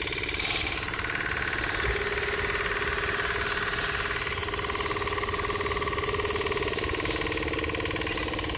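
Miniature grinding mill, belt-driven by the small motor in a model engine, running steadily as it grinds dried red chillies into flakes. It gets a little louder about half a second in.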